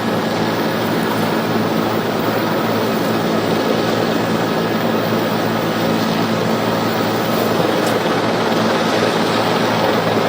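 Steady aircraft noise with a low droning hum, heard over a live TV news broadcast during the landing of an Airbus A320 with jammed nose gear.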